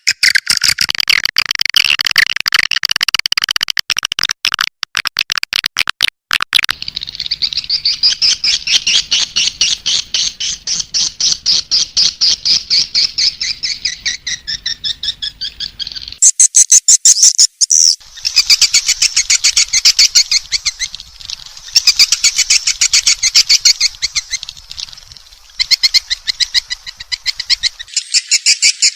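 Swiftlet lure call: a recording of swiftlets' rapid, high twittering chirps, played to call the birds into a swiftlet house. It comes in spliced segments that change abruptly every few seconds.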